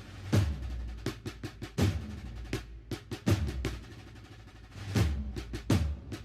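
Snare and bass drums playing a slow march beat: deep bass drum strokes about every one and a half seconds, with sharp snare strokes and short rolls between them.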